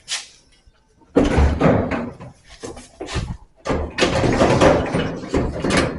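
Sheet-metal dryer cabinet part being worked loose and pulled out: a knock, a pause of about a second, then irregular clattering and scraping of metal.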